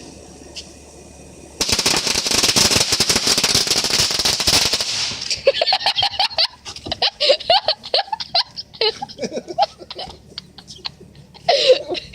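Firecrackers going off: a sudden dense, rapid crackle of pops about one and a half seconds in, lasting a few seconds, then scattered pops thinning out.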